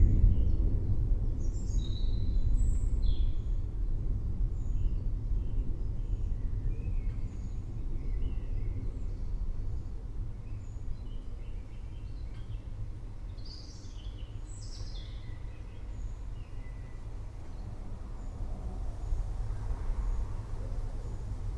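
Low rolling thunder rumble that slowly fades over the first dozen seconds or so, leaving a steady low rumble. Birds chirp over it in short scattered calls, clustered about two seconds in and again around thirteen to fifteen seconds.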